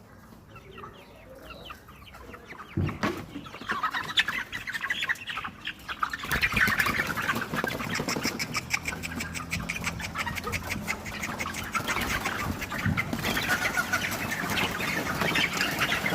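A flock of broiler chickens clucking and calling over one another, faint at first and growing louder and denser from about six seconds in.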